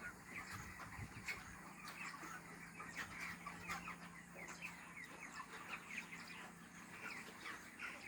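A flock of 30-day-old broiler chickens calling together, many short overlapping downward peeps and clucks without pause, over a steady low hum.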